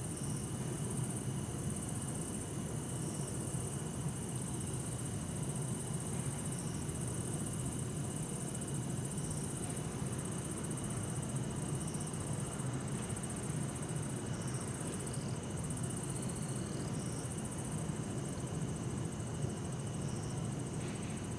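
Bell crickets (suzumushi) and other crickets singing steadily, with short high calls repeating every two to three seconds, over a low steady hum of distant city traffic.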